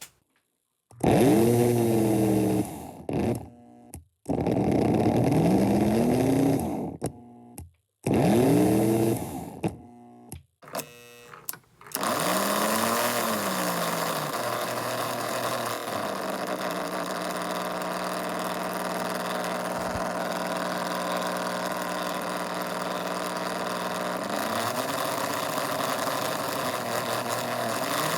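American Flyer 322 Hudson toy locomotive's electric motor and gears whirring in several short runs, each speeding up and then winding down, with silent gaps between them and a few clicks around ten seconds in. From about twelve seconds it runs continuously, its pitch rising and falling as the speed changes.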